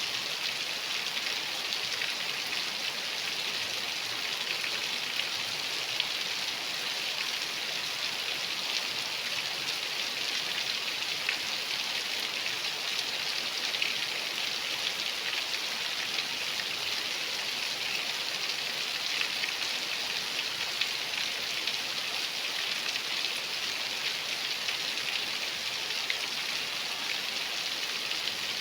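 Steady rain: an even hiss of falling rain peppered with small, sharp drop ticks.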